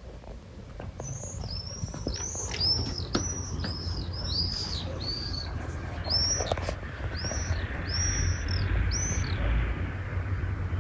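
A flock of birds in flight calling: a quick run of shrill, arched high notes, two or three a second, thinning out near the end, over a low steady rumble.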